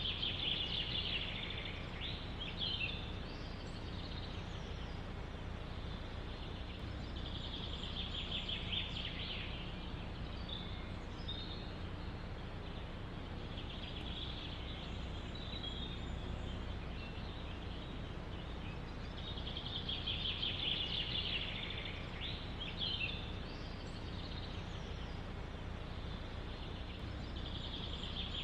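A songbird singing a short high trill about every six seconds, five times in all, with a few brief chirps between, over a steady low wind rumble.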